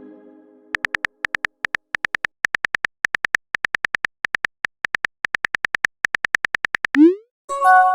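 Rapid runs of short, high beeping key-tap sound effects, the typing sound of a texting-story video, coming in quick bursts of several taps each. Near the end comes a short rising swoosh, the message-sent cue, and then a ringing chime.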